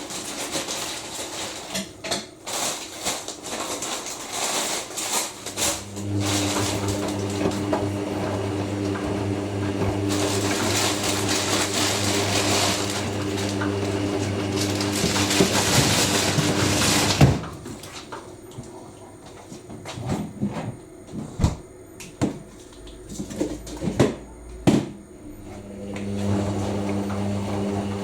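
Hoover NeXtra front-loading washing machine between rinse and spin. Its drain pump starts humming about five seconds in with water rushing through, then cuts off suddenly with a click. The drum then turns with scattered knocks and clicks, and the pump hum starts again near the end.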